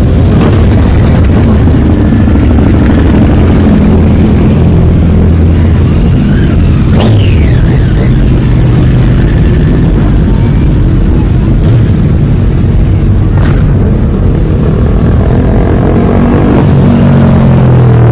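A stream of motorcycles riding past one after another, their engines loud and overlapping, rising and falling in pitch as each bike goes by.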